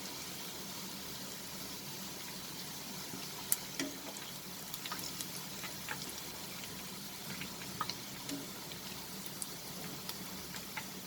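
Hot frying oil in a karai sizzling steadily, with scattered sharp crackles and pops, one louder pop about three and a half seconds in.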